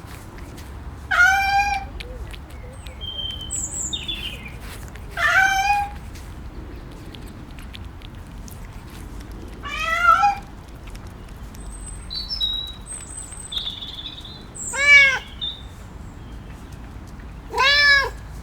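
A domestic cat meowing five times, each a short pitched call several seconds apart. Faint, brief high chirps come between the meows.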